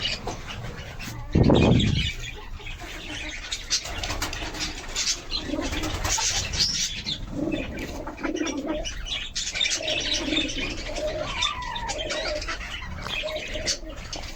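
Domestic pigeons cooing repeatedly, with higher bird chirps mixed in. A brief loud low rumble comes about a second and a half in.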